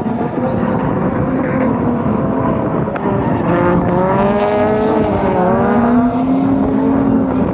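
Drift car engines revving up and down hard, their pitch rising and falling several times, over a loud rush of noise.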